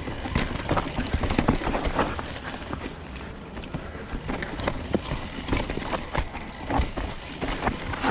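Mountain bike clattering down a rough, rocky trail: an irregular run of knocks and rattles from tyres, chain and frame over a steady low rumble.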